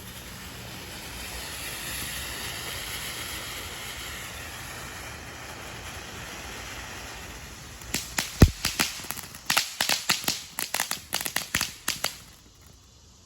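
Rowdy consumer ground firework going off: a steady hiss for about eight seconds, then a rapid string of sharp cracks for about four seconds, one near the start of the cracking louder and deeper than the rest.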